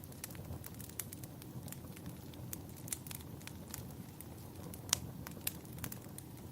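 Wood fire crackling in a fireplace, with irregular sharp pops over a steady low rumble; the loudest pop comes about five seconds in.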